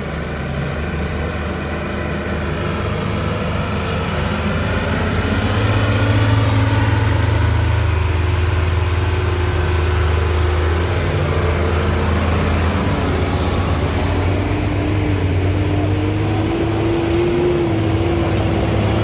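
Heavy diesel vehicle engines running under load on a steep climb, a low steady drone that grows louder over the first six seconds and then holds, with an engine note that rises slightly near the end.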